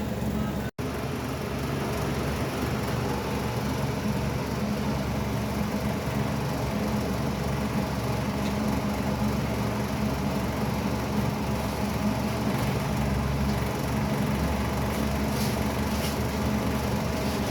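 Steady mechanical hum, like a machine or fan running, with a brief dropout just under a second in.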